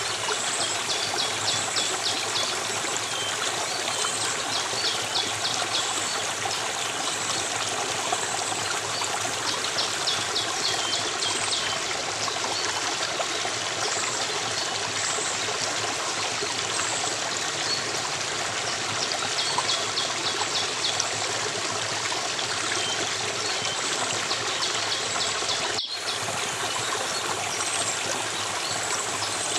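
Flowing stream running steadily, with small birds calling in rapid high trills that come and go in bursts of a second or two. The sound cuts out for a split second near the end.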